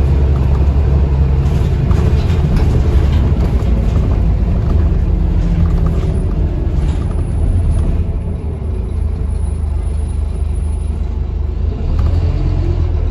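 Scania Enviro 400 double-decker bus in motion, heard from inside the cabin: steady engine and road rumble, easing off about eight seconds in and picking up again near the end as the engine note climbs.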